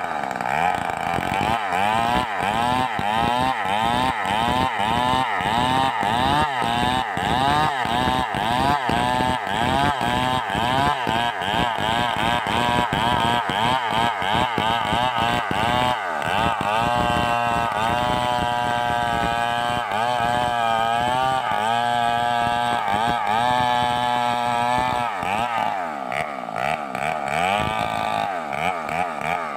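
Stihl 038 two-stroke chainsaw running, its engine revving up and down over and over, about once or twice a second. About halfway through it holds at high revs with slight wavering for several seconds, then goes back to rising and falling near the end.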